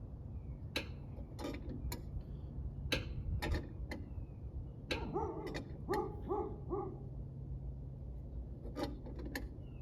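Irregular sharp metallic clicks, typical of a wrench working a truck's brake adjuster, with a dog giving four short yelps about halfway through over a steady low hum.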